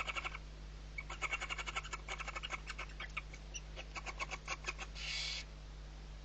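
Barn owl chick calling in fast trains of chittering notes, about ten a second, then a short hiss about five seconds in.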